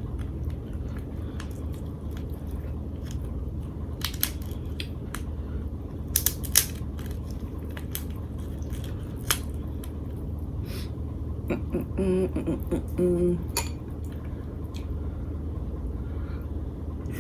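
A person eating lobster tail in butter sauce: chewing and mouth sounds with a few sharp clicks of utensils against a dish, and a brief hummed voice sound about twelve seconds in.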